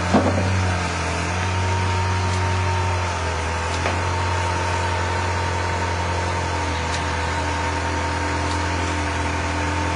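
Eleanor Mustang's V8 idling steadily with a low, even exhaust note. A brief sharp knock comes right at the start.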